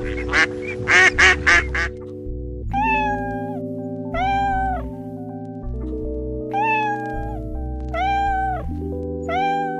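Duck quacking in quick calls for the first two seconds, then a cat meowing five times, each meow under a second, over background music.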